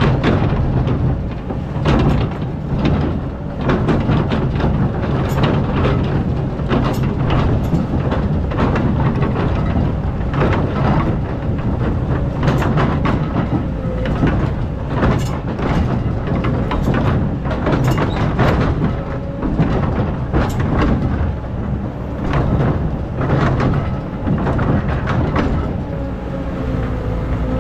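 Excavator's diesel engine running steadily under load, with irregular knocks and scrapes of the steel bucket biting into hard, compacted sand.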